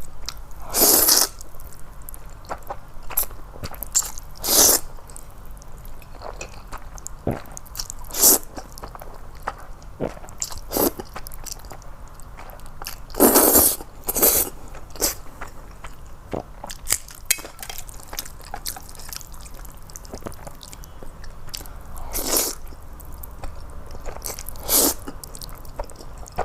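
Close-miked eating of noodles: several short loud slurps spread through, with chewing and small wet mouth clicks between them.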